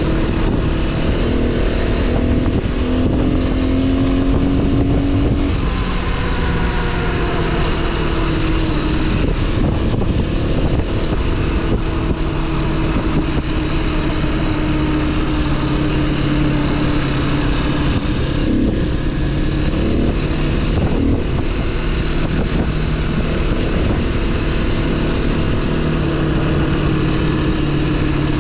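Motorcycle engine running while riding, its pitch shifting about five seconds in, over a steady rush of noise.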